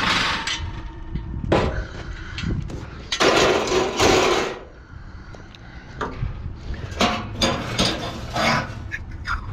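Irregular clanks and knocks of sheet metal as a scrap stove is handled and parts are pulled off it, with a loud scraping rush about three seconds in.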